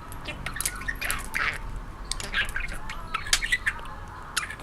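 Male budgerigar chattering: a quick, irregular run of short chirps, clicks and squawks.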